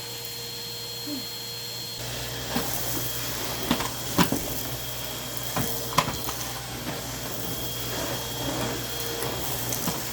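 Numatic Hetty cylinder vacuum cleaner running with a steady whine, its sound getting fuller about two seconds in. A few sharp knocks come through over it.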